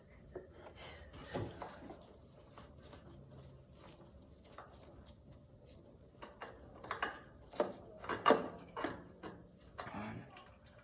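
Light clicks and knocks of hand tools and parts being handled while the oil filter is being removed, scattered at first and then a quick run of louder knocks about seven to nine seconds in.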